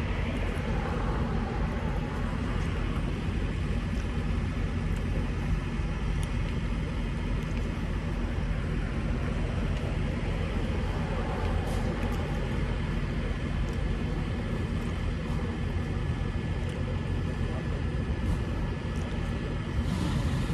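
Truck running with a steady low rumble that holds at one level throughout.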